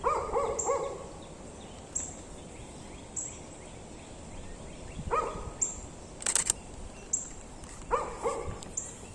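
A dog barking in short bursts of two or three barks: at the start, about five seconds in and near the end. Behind it, a bird's thin high note repeats about every second and a half, and there is one brief sharp click a little after six seconds.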